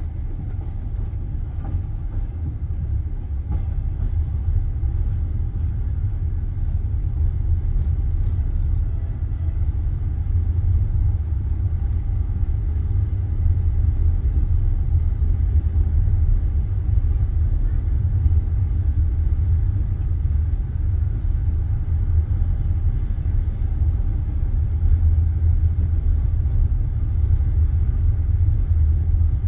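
Steady low rumble of a passenger railway carriage, heard from inside the car, with no clear beat of wheels on rail joints.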